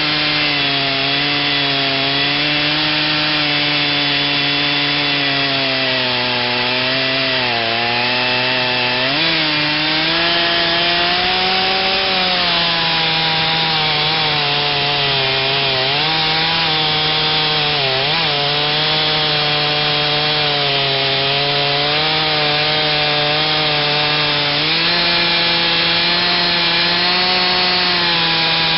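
Stihl 039 chainsaw with a modified, opened-up muffler running at high revs under load, its 28-inch bar cutting through oak. The engine pitch sags and recovers as the chain bites: it drops lowest about seven to nine seconds in, dips briefly again later, and picks up near the end.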